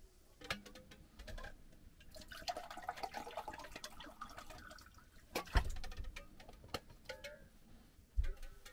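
Liquid being poured into a container, among small clicks and knocks of things being handled; a heavy thump about five and a half seconds in and another near the end.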